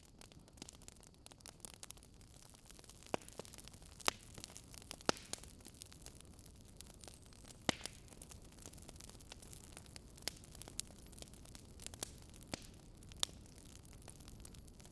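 Wood fire crackling: irregular sharp pops and snaps, about a dozen, over a low steady hiss.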